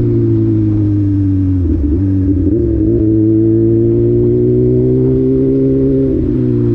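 Honda Hornet 600 inline-four motorcycle engine running under way at steady revs, with a brief dip and wobble in revs about two seconds in before it settles and slowly climbs again.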